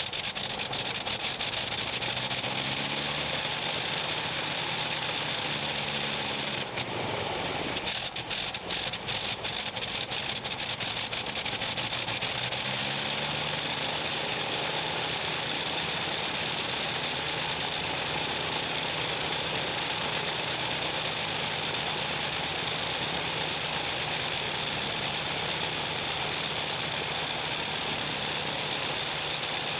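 Avro 504K's rotary engine running just after start-up. About seven seconds in it drops out briefly and then fires unevenly for a few seconds before settling into a steady run.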